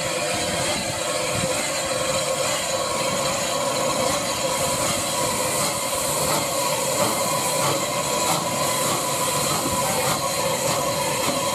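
Steam train moving on the line, a steady rumble of wheels on rail with some hiss.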